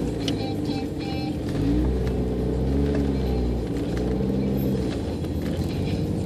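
Jeep engine running and revving, heard from inside the cab, its pitch rising and falling with the throttle. A deeper rumble swells in the middle.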